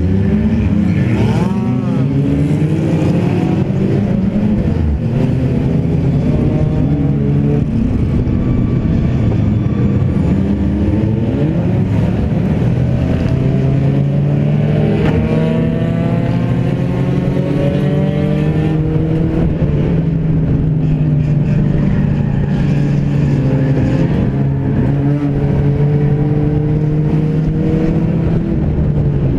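Car engine running hard under racing load, heard inside a stripped-out sedan cabin, its pitch rising and falling with the throttle, with other race cars' engines mixed in.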